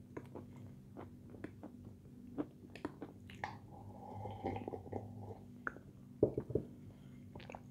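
Close-miked chewing of crunchy sweets, with many small mouth clicks and smacks. About three and a half seconds in there is a sip from a bowl lasting a second or two, and a couple of louder knocks come about six seconds in.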